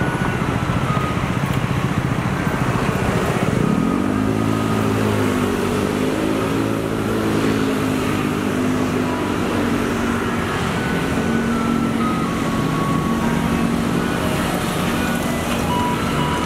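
Garbage truck's diesel engine running rough and low, then revving up about three and a half seconds in as the truck pulls away, and running steadily under load. The truck's loudspeaker tune plays faintly over it.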